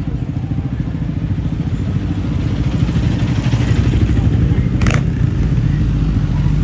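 Motorcycle engine running at low revs with a rapid, even firing beat, growing gradually louder, and a sharp click about five seconds in.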